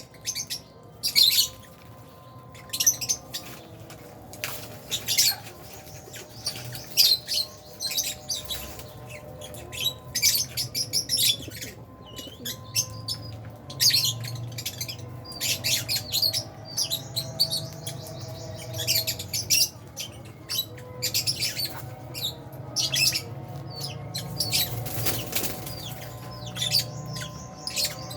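A colony of lovebirds, Fisher's and albino, chirping: many short, sharp, high chirps overlapping irregularly, with wing flapping among them. A low steady hum runs underneath.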